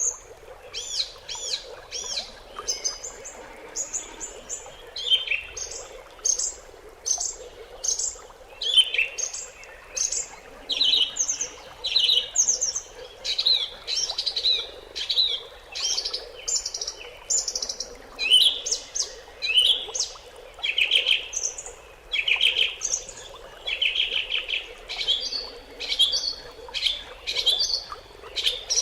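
Small songbirds chirping and trilling in quick, repeated short calls, several overlapping.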